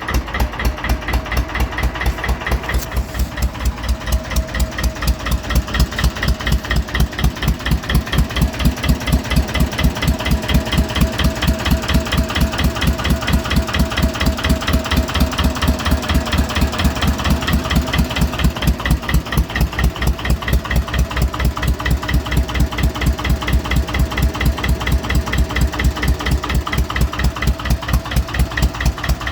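Lister Petter PH2 two-cylinder air-cooled diesel engine of a Barford dumper idling with a steady, even beat of about five pulses a second, warming up after a cold start at −2 degrees.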